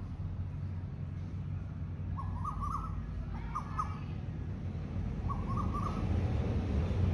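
A bird calling in three short, wavering phrases over a steady low rumble that grows louder near the end.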